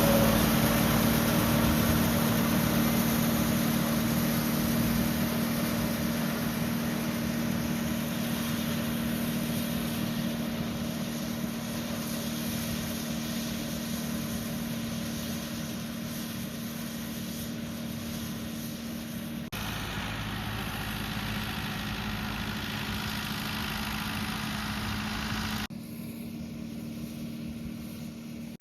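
Ford 5000 tractor engine running at a steady speed, growing gradually fainter over the first half, with sudden drops in level about 20 and 26 seconds in.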